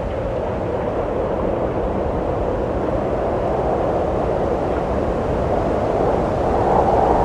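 Steady wind blowing, a continuous rushing noise with a low rumble, swelling a little near the end.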